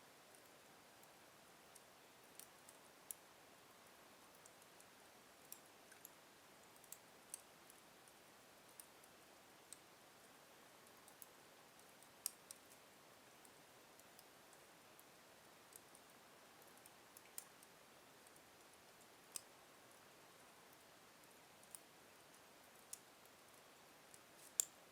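Slow-burning wood fire in a fireplace crackling: sparse sharp snaps and pops, roughly one a second, over a faint hiss, with the loudest pop near the end.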